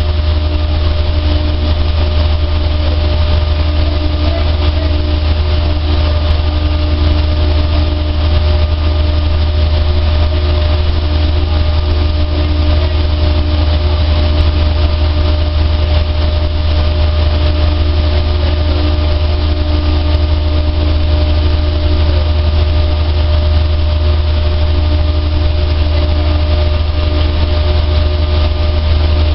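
A large dryer running steadily, a loud constant low hum with a few steady tones above it.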